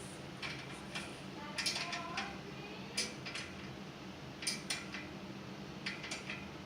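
Scattered light metal clicks and scrapes of small hand tools working on a Hoffman #7 steam radiator valve as packing is pushed down around its stem, one with a brief ringing note about two seconds in, over a faint steady low hum.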